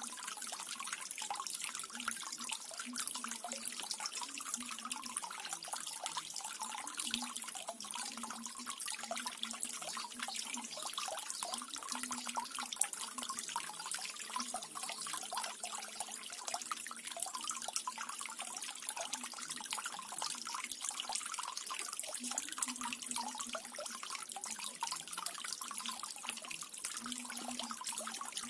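Small garden waterfall: water falling and splashing steadily, with a dense patter of fine trickles and drips.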